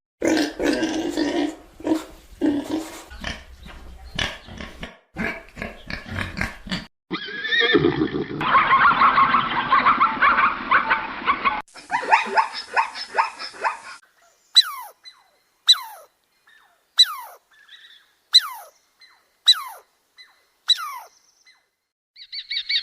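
A string of different animal calls, one after another. Stuttering calls come first, then a long, full call lasting about four seconds, and it ends with seven short, sharply falling calls about a second apart.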